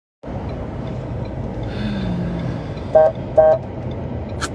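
A vehicle horn gives two short toots, about half a second apart, over the steady rumble of road traffic. A sharp click comes near the end.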